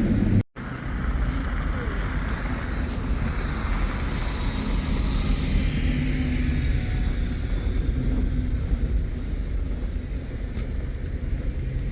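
A car driving: a steady low engine and road rumble.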